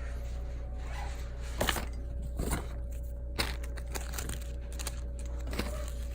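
A few short rustles and clicks from small objects being handled, over a steady low hum.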